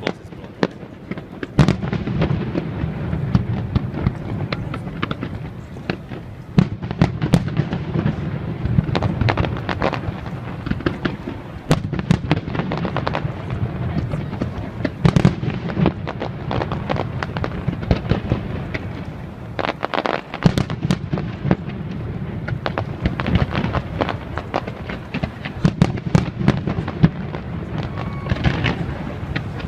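Large fireworks display: aerial shells bursting in a rapid, continuous string of bangs and crackles over a steady rumble.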